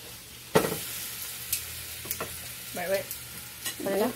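Quesadilla frying in a cast-iron griddle, with a steady high sizzle. A sharp metal clack about half a second in, and a few lighter clicks later, as a metal spatula knocks and scrapes on the pan to slide under and lift the quesadilla.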